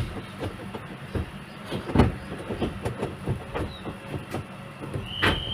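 Gear lever of a five-speed manual gearbox being moved through the gears, a series of short clunks and clicks, the loudest about two seconds in, over a steady low engine hum. Near the end a steady high-pitched buzzer starts as the lever goes into reverse.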